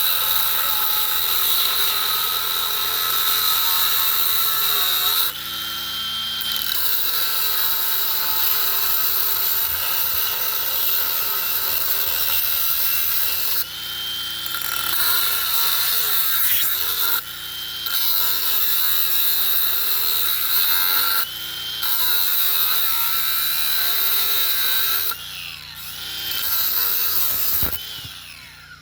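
Angle grinder running on steel pipe with a steady high-pitched whine. It eases off briefly about five times, the motor's pitch gliding during each letup.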